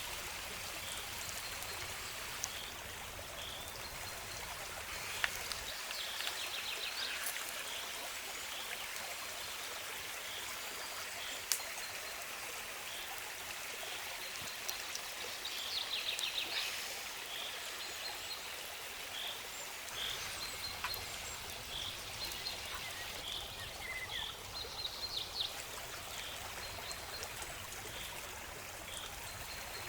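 Steady rush of running stream water, with a short high chirp repeating about once a second, a few brief high trills, and a couple of sharp clicks.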